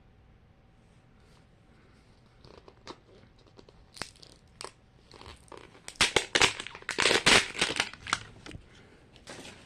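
Crinkly plastic wrapping of a Mini Brands capsule being torn and crumpled by hand. It starts as scattered crinkles and clicks, then becomes a loud, dense run of tearing and crinkling for about two seconds before tailing off.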